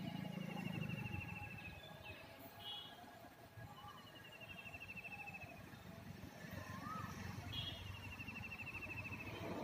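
Faint birdsong: a rapid, falling, pulsed trill repeated three times, a few seconds apart, with short rising calls in between. A low rumble fills the first second.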